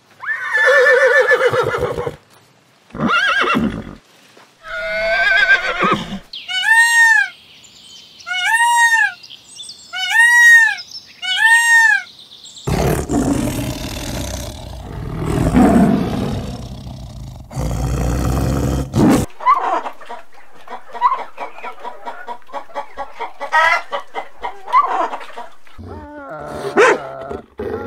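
A string of animal calls: a horse neighing at the start, four short evenly spaced arched calls, a long loud tiger roar in the middle, then quick repeated small calls and a dog's short bark near the end.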